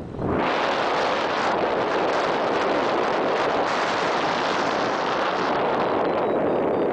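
Wind rushing over the microphone: a loud, steady roar that starts abruptly just after the start.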